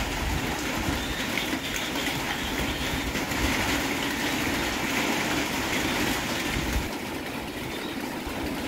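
Steady rain, a constant hiss with a low rumble beneath.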